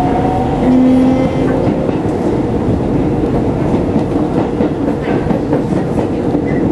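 Keisei 3700 series electric train running at speed, heard from inside the car: a steady rumble with wheels clicking over rail joints. A rising whine dies away in the first two seconds.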